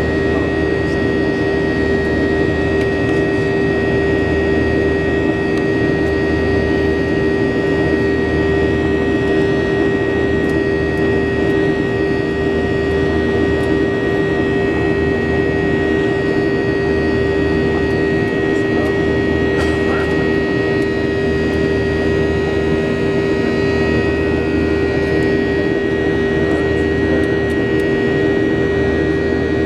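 Steady jet engine and air-conditioning noise heard inside a Boeing 737 airliner cabin: an even hum with a constant whine that holds the same pitch throughout.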